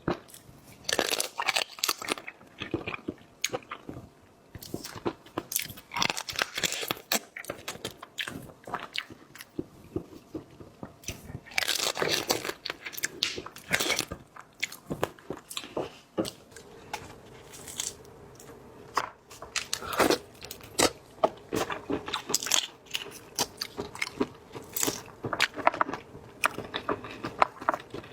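A person eating seafood, biting and chewing with irregular crunches and mouth noises. A faint steady hum joins about halfway through.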